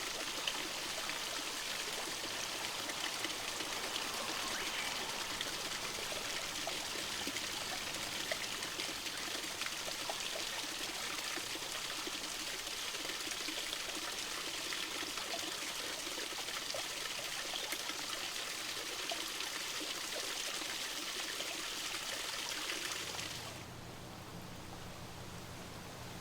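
Water trickling and running steadily in a small stream. About 23 seconds in it cuts off abruptly to a quieter hiss with a low hum.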